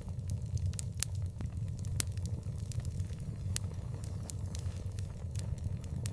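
Wood fire burning: a steady low rumble of flames with sharp crackles and pops at irregular moments, the loudest snaps about one, two and three and a half seconds in.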